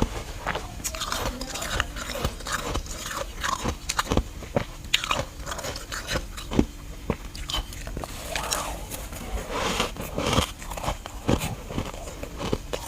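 Close-up biting and chewing of freezer frost chunks: a steady run of irregular crisp crunches and crackles.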